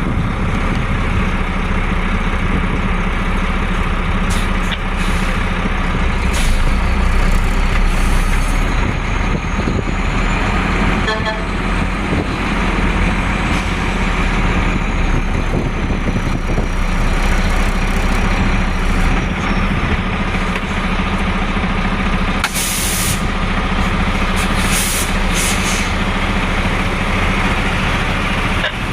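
Heavy trucks running past on the road: a steady, loud engine noise with road traffic. A few short hisses come near the end.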